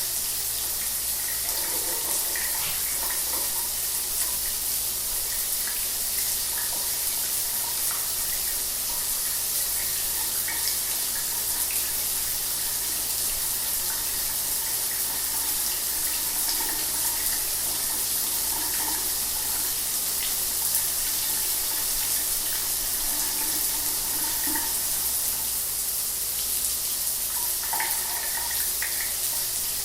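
Shower water running steadily, spray splashing down with an even hiss and small shifts in the splash.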